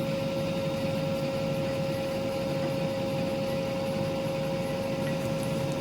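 Heavy construction machine's engine running steadily: a constant whine over a low, even rumble.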